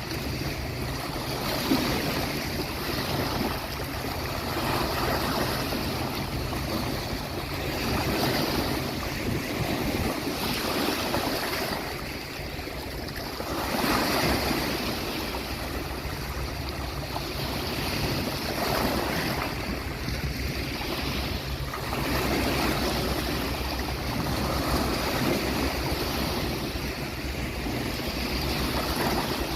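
Sea waves breaking and washing on a beach shore. The surf swells and eases every few seconds over a steady low rumble.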